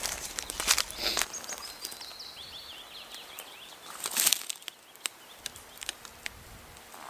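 Footsteps crunching on woodland ground for the first second or so, then a small bird singing a quick run of high chirps. Another step rustles about four seconds in, followed by a few soft clicks.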